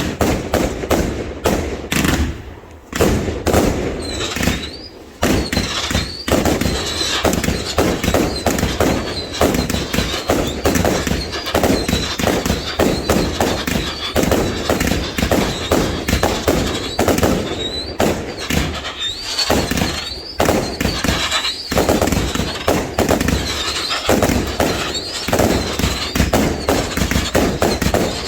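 Fireworks going off in a dense, continuous barrage of rapid bangs and crackles, with a brief lull about three seconds in.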